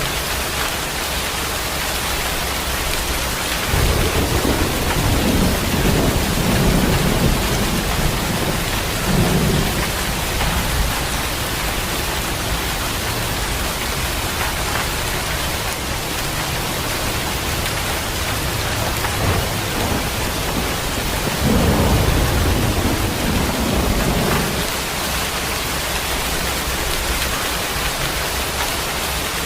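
Steady heavy rain with thunder rolling twice, a low rumble starting about four seconds in and another about twenty-one seconds in, each lasting several seconds.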